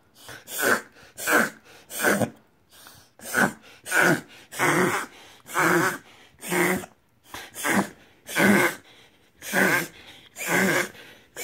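A whippet reverse sneezing: a long run of loud, harsh drawn-in breaths, about one every three-quarters of a second, with a brief pause about two and a half seconds in. A vet confirmed the sound as a harmless reverse sneeze.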